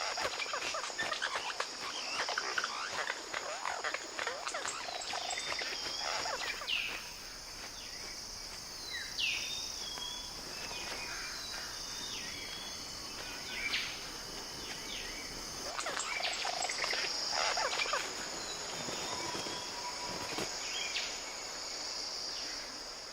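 Tropical forest ambience: a steady high-pitched insect drone, with scattered short bird calls (whistled notes and quick sweeping calls) and a patter of small clicks and rustles that come thicker at the start and again in the last third.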